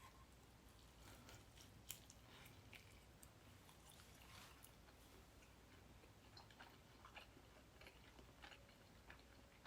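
Faint chewing of guobaorou (Chinese fried sweet-and-sour pork) whose batter has gone soggy, with scattered small mouth clicks.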